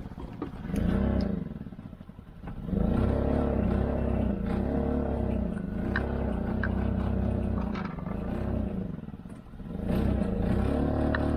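Small outboard motor being coaxed back to life. It fires briefly, dies, then runs unevenly with a regular surge, dips out again about nine seconds in and picks back up, running steadier near the end. The owner blames this stalling on fuel starvation from the separate tank, with air in the line.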